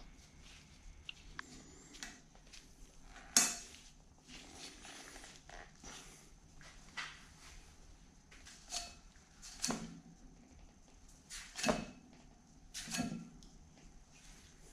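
Metal parts and tools being handled during machine reassembly: scattered light clicks and clunks, the sharpest about three and a half seconds in and a few more in the second half.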